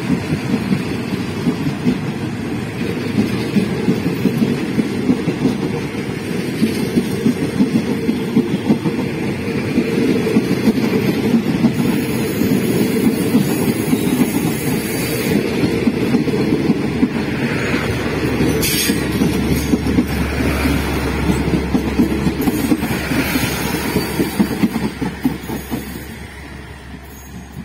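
State Railway of Thailand passenger coaches rolling past close by: a steady rattle and clatter of steel wheels on the rails. The sound fades near the end as the last coach goes by.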